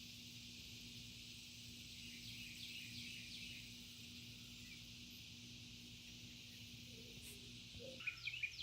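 Quiet outdoor background of a steady high hiss, with a few faint bird chirps two to three seconds in and a quick run of louder bird chirps near the end.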